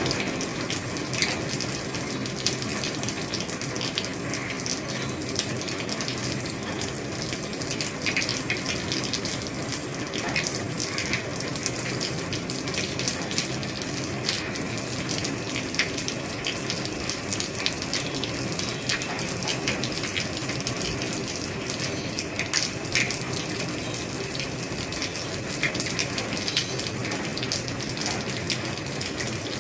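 Heavy rain falling on an old roof: a steady hiss of rain with many separate drops ticking sharply on the roof.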